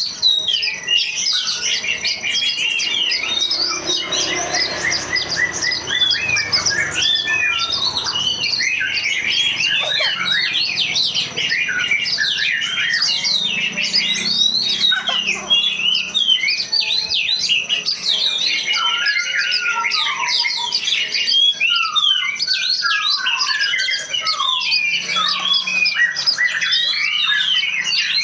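A flock of many small birds chirping, twittering and squawking all at once in a dense, unbroken chorus of short high calls.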